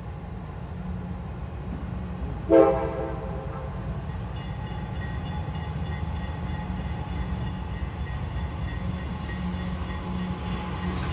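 Diesel freight locomotives running toward the listener, a steady low rumble, with one short, loud horn blast about two and a half seconds in. The train sound grows slightly louder near the end.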